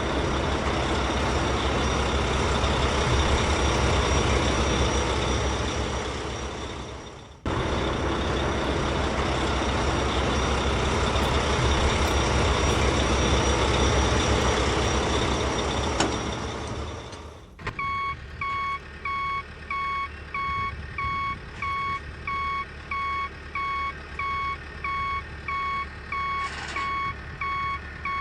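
Heavy truck diesel engine running with a steady, loud rumble, broken by an abrupt cut about seven seconds in. It stops suddenly after about seventeen seconds, and a truck's reversing alarm then beeps evenly, about once every three-quarters of a second.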